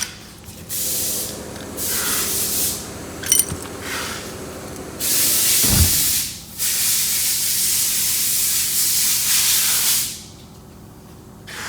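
A pressurised jet hissing in several bursts, the longest lasting about four seconds, while turbo parts are being cleaned. There is a light metallic clink about three seconds in and a dull thump near six seconds.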